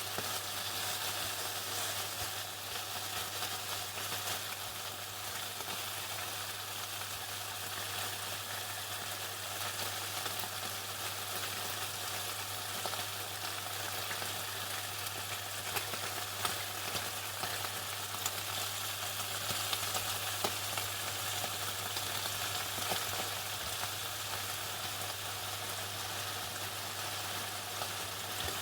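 Chicken frying in hot oil: a steady, dense sizzle of fine crackles with a few sharper pops, over a constant low hum.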